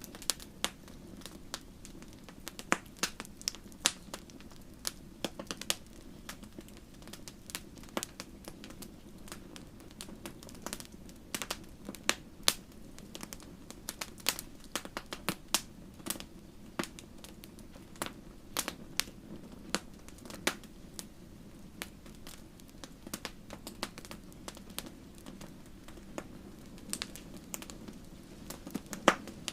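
Wood fire burning in a fireplace: irregular sharp pops and crackles, several a second, over a steady low rush of the flames.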